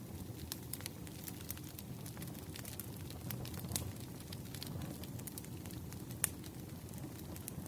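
Crackling wood fire: burning logs popping and snapping irregularly over a low, steady rumble, with one louder pop about six seconds in.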